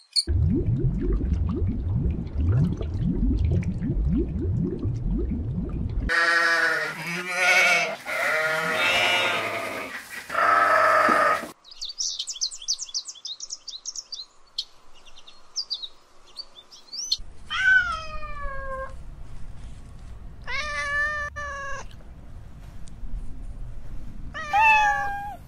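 A run of different animal calls, one after another, ending in three separate cat meows that bend in pitch.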